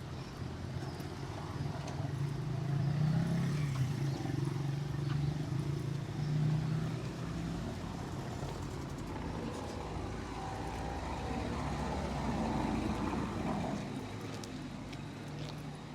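Street traffic: motor vehicles driving past, their engine hum swelling and fading as each one goes by.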